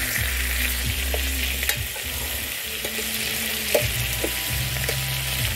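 Chicken pieces with sliced onions and carrots frying in oil in a pot, sizzling steadily, while a plastic spoon stirs them with a few light scrapes.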